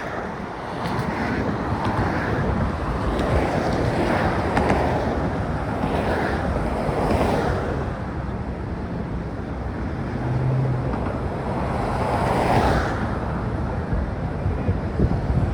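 Wind rushing over a phone microphone muffled by a sock, mixed with the steady noise of traffic on the bridge deck. The rush swells and fades every few seconds, with a brief low hum a little after ten seconds in.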